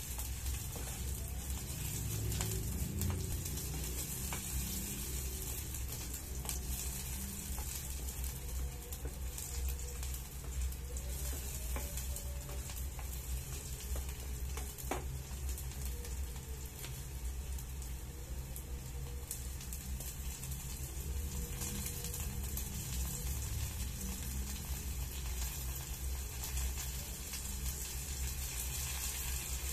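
Chopped onion frying in oil in a small electric frying pan: a steady sizzle, with a spatula stirring and scraping the pan and a few sharp taps against it.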